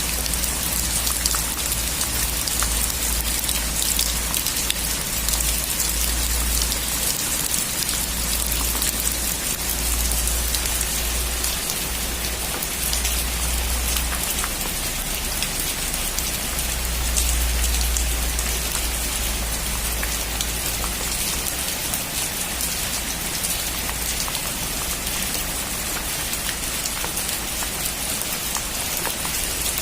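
Heavy rain falling steadily on a metal roof, a dense patter of drop impacts with a low rumble underneath that swells and fades.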